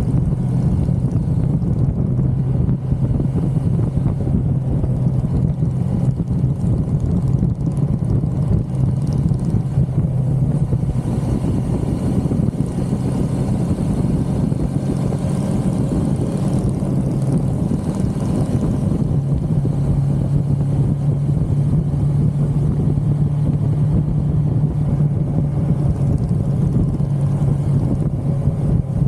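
1982 Suzuki GS550L's air-cooled inline-four engine running steadily at highway cruise, a continuous drone whose pitch shifts a little partway through.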